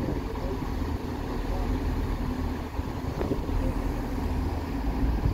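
Train's engine running steadily, a held hum with a low, uneven rumble beneath it, typical of wind on the microphone.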